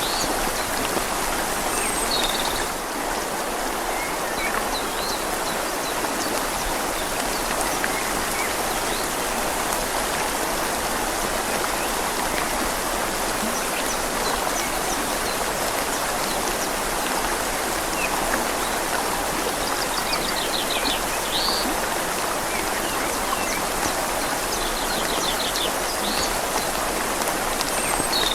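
Steady rain falling on leaves, with the even rush of a flowing river beneath it. A few short high chirps come through a couple of seconds in and again near the end.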